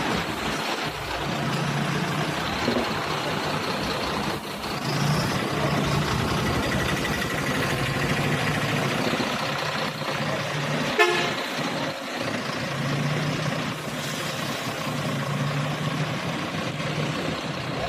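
A truck running on the road with traffic noise, and a vehicle horn tooting.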